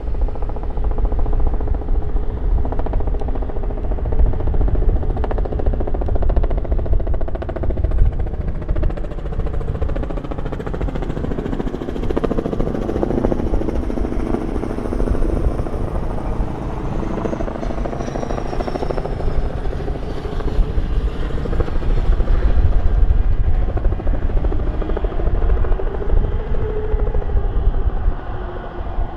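An aircraft passing overhead, its engine tones slowly bending in pitch and growing loudest in the middle, under heavy wind buffeting on the microphone.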